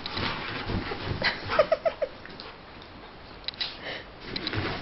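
A dog making a quick run of four short whimpering sounds about one and a half seconds in, with some rustling and a few light clicks after.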